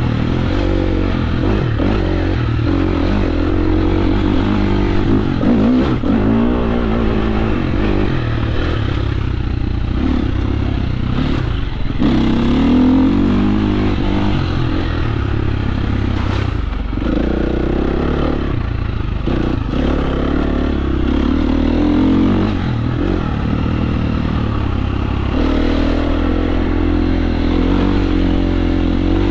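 KTM 350 SX-F dirt bike's single-cylinder four-stroke engine revving up and down repeatedly as it is ridden, pitch rising and falling with the throttle. Brief knocks and clatter from the bike over rough ground.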